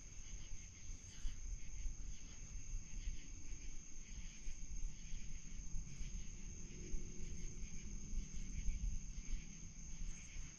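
Steady, high-pitched chorus of night insects, with a low rumble underneath.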